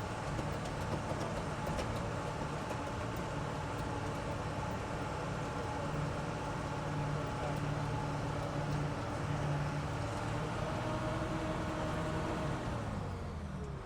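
Engine of an amphibious duck tour vehicle running steadily, its pitch dropping over the last second or so as it slows down.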